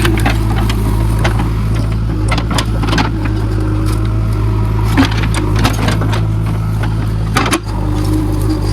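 JCB backhoe loader's diesel engine running steadily under work, with scattered sharp clanks and knocks from the machine, the loudest about 5 s and 7.5 s in.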